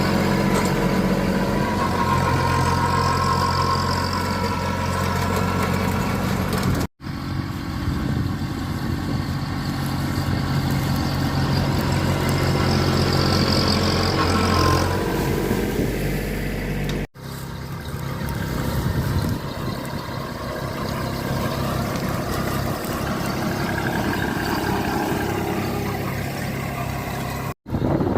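Tractor engines running steadily, across several short clips that cut off suddenly about a quarter, a half and nearly all the way through; the first two clips have a steady low engine drone.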